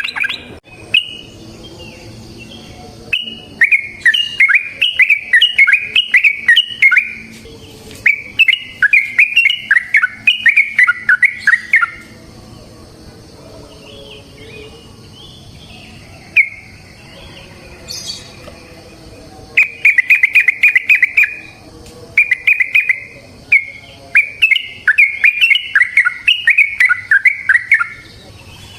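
Yellow-vented bulbul (trucukan) singing rapid, bubbly runs of chirping notes in bursts of a few seconds each, with a pause of several seconds in the middle.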